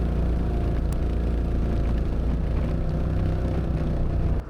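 Can-Am Outlander ATV's V-twin engine running steadily in low gear while climbing a rocky trail. The sound drops off abruptly near the end.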